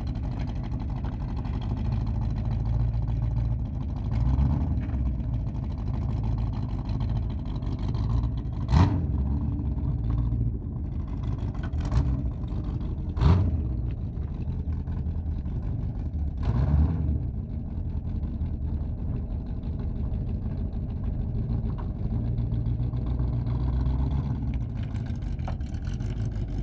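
Ford GT40's V8 engine idling with a deep rumble, then revving as the car pulls away and running at low throttle as it drives off. A few sharp bangs stand out around the middle.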